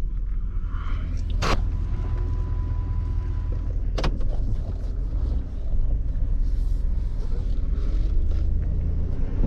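Work truck engine running steadily with a low rumble while salting a parking lot, with two sharp clicks about one and a half and four seconds in and a faint steady tone between them.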